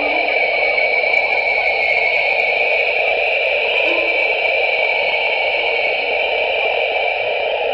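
Sonification of the James Webb Space Telescope's Southern Ring Nebula images: a steady electronic hiss like radio static, a lower rush and a higher hiss together.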